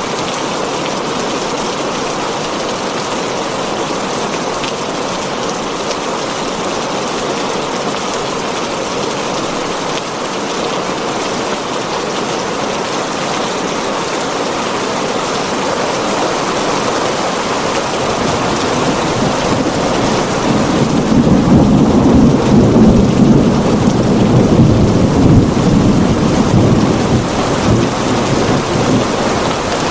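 Heavy rain drumming steadily on a tin roof. About two-thirds of the way in, a long low roll of thunder builds, becomes the loudest sound for several seconds, then fades away near the end.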